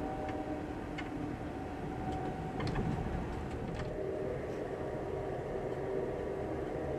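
Inside a moving Amtrak Auto Train sleeping car: a steady rolling rumble with a low, even hum, and a few faint clicks and knocks in the first four seconds.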